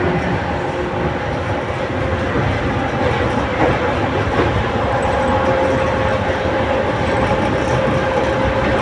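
Passenger train carriage running at speed: a steady rumble of wheels on rail, with a few faint clicks from the rail joints.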